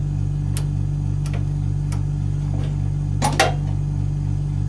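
A steady low mechanical hum with light clicks about every two-thirds of a second, and a sharper double click a little past three seconds in.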